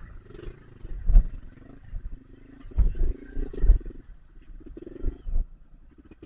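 Dirt bike engine running at low speed and revving in uneven bursts through mud. Several heavy low thumps from wind or jolts on the microphone come about a second in, around three to four seconds in, and near five seconds.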